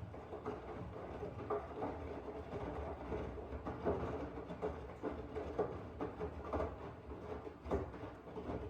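Miele W1 front-loading washing machine running: a steady rumble with irregular, short louder knocks and thuds every second or so.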